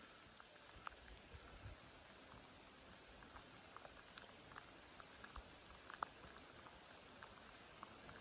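Faint rain falling: a steady soft hiss with scattered single drops ticking.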